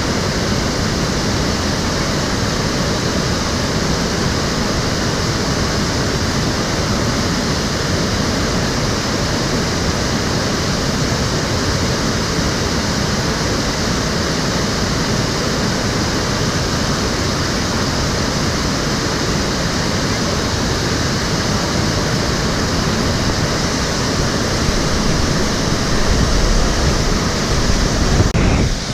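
Stream water flowing over a shallow bed, a steady rushing. A low rumble swells near the end and breaks off suddenly.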